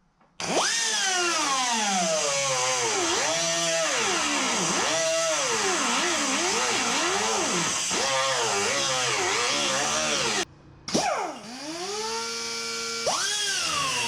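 Drill with a spot-weld cutter bit boring out spot welds in sheet-metal body panels. The motor whines, its pitch sagging each time the cutter bites and bogs, then climbing as it frees. It stops briefly near the end and starts again.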